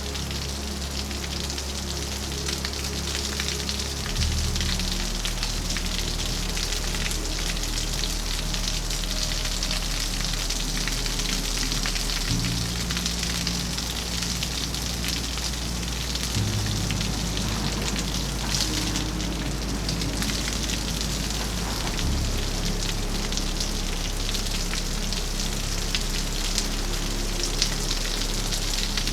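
Steady heavy rain falling, a continuous hiss of drops on surfaces. Underneath it, soft music of low held notes that change every few seconds.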